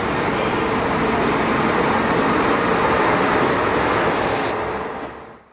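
Steady running noise of a passing train with a faint hum, fading out near the end.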